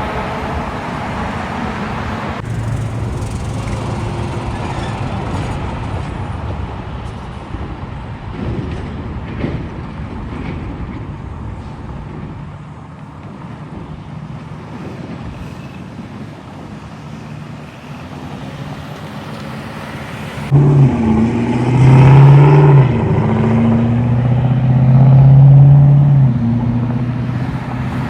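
Road traffic running by, then about 20 seconds in a big-rig truck's diesel engine comes up suddenly and loud as it passes close, its note holding and shifting in steps.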